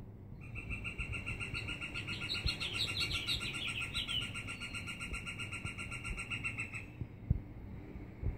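Birdsong: one long, rapid, even trill lasting about six seconds that stops suddenly near the end, with shorter higher chirps from another bird over it in the first half.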